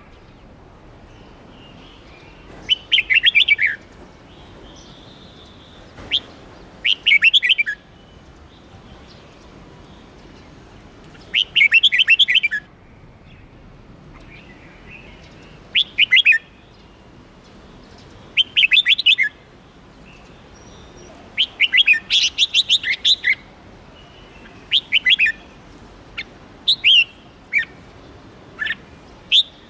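A songbird singing short bursts of quick, high chirps, each burst about a second long, repeated every few seconds, with a faint steady hiss between the bursts.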